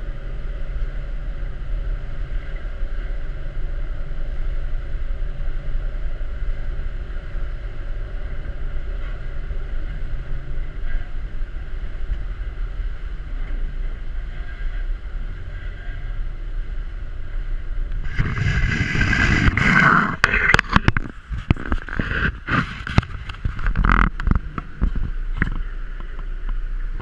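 A tour boat's engines drone steadily with a low hum. About two-thirds of the way in, a loud, gusty rushing noise with crackling buffets the microphone and stays over the engine until the end.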